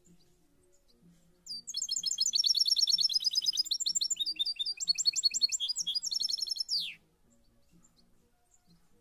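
A songbird singing one long, rapid twittering song of quickly repeated high chirps and trills. It starts about a second and a half in and ends on a quick falling note about five seconds later.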